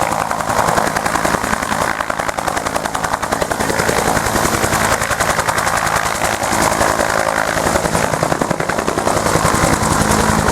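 UH-1 Huey helicopter running close by, its two-bladed main rotor making a rapid, even blade-slap thumping over the engine noise.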